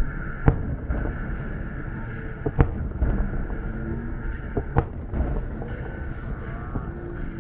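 Fireworks going off: three sharp bangs about two seconds apart, with a few fainter cracks between them, over a steady low rumble.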